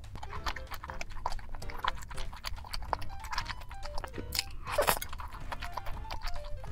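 Close-miked eating of a slice of rosé shrimp focaccia pizza: quick crackly clicks and wet chewing sounds, with one louder bite about two-thirds of the way in. Soft background music with a simple stepping melody plays underneath.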